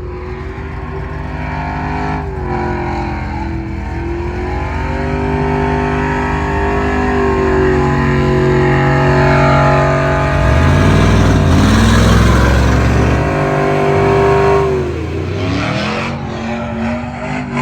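Pickup truck engine revved high and held at speed in a burnout pit, its pitch steady with small wavers, then dropping and climbing again near the end.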